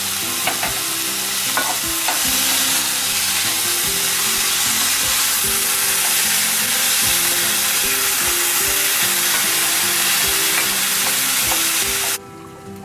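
Diced vegetables frying in hot oil in an aluminium kadai, sizzling loudly as a wooden spatula stirs them, with a few clicks of the spatula against the pan. The sizzle drops away suddenly near the end.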